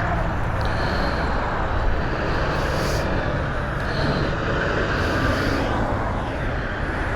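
Steady wind and road noise from an E Ride Pro SS 3.0 electric motorbike being ridden along, a dense even rush with no engine sound and no sudden events.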